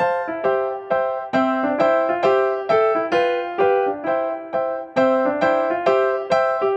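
Background music: a simple, cheerful keyboard tune in electric-piano tone, with struck notes about three a second, each fading quickly.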